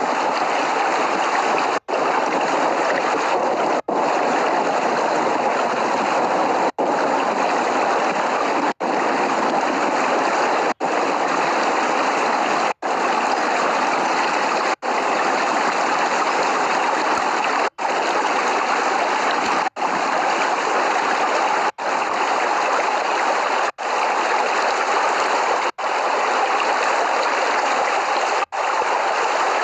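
Steady heavy rain, an even hiss of water, broken by brief sudden dropouts about every two seconds.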